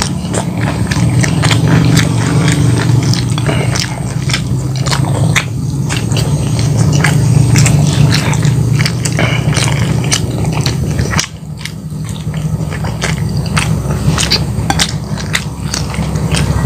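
Close-miked chewing of crispy-battered fried chicken and rice, with many sharp crunches and wet mouth clicks. A steady low hum runs underneath and cuts off suddenly about eleven seconds in.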